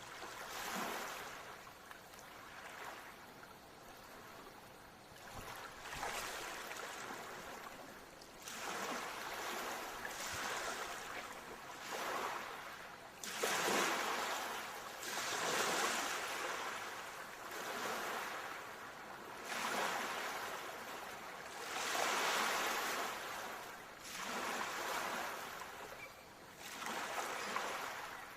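Ocean waves washing onto a shore, a hiss that swells and fades again every two to three seconds.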